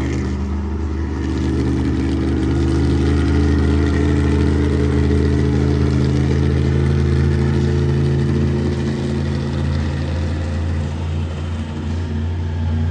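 Monster truck engine running loud at a fairly steady pitch, wavering a little near the end.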